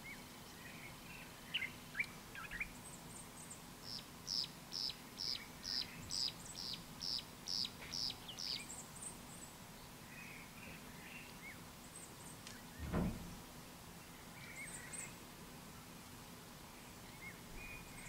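Wild birds calling: one bird gives a run of about a dozen clear falling whistled notes, roughly two or three a second, with shorter chirps before and after and faint high twitters from others. A brief low thump sounds about two-thirds of the way through.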